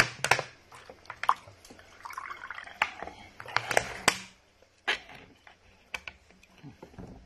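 A person chewing food with wet lip smacks and mouth clicks, irregularly spaced. There are a couple of longer breathy stretches around the middle.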